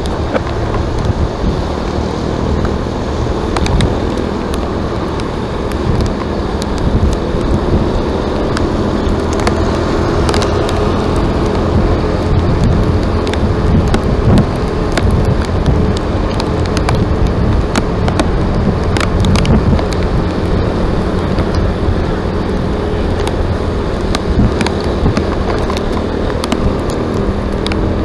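A motor running steadily under heavy rumbling noise, with scattered sharp clicks.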